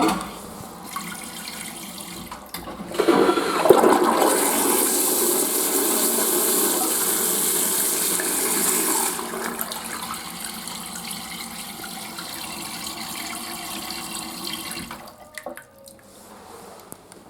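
Toilet flushing: a click as it is set off, then a loud rush of water for several seconds that eases into a quieter refill flow, which cuts off about fifteen seconds in.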